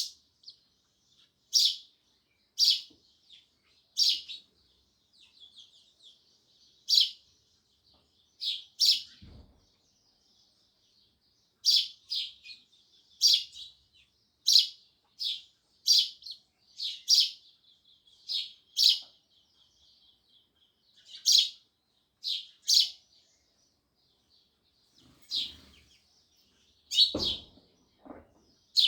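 House sparrows chirping: short, loud chirps repeated about once a second at uneven spacing, with softer chatter between. A couple of dull low thuds sound under them, one about a third of the way in and one near the end.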